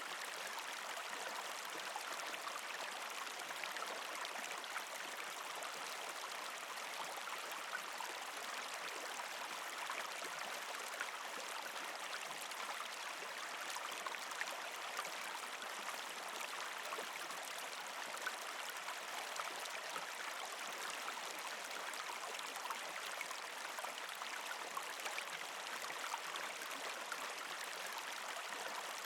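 Creek water flowing and gurgling over rocks, a steady rush with small trickling splashes.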